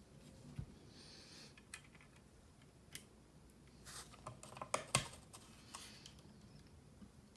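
Scattered small plastic clicks and snaps of mechanical keyboard parts being handled, with a quick cluster of sharper clicks about four to five seconds in and brief scraping rustles in between.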